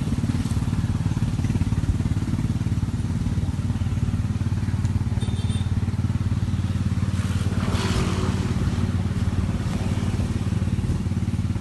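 Combine harvester engine running steadily, a deep even drone, with a brief rushing noise about eight seconds in.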